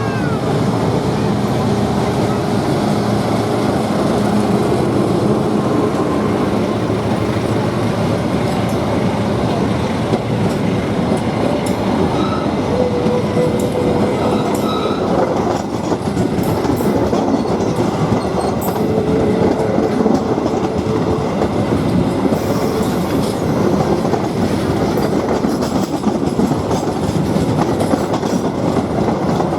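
Lodaya passenger train rolling past over a railway bridge: a steady rumble and clatter of wheels on rails. Thin squealing tones from the wheels come and go about halfway through.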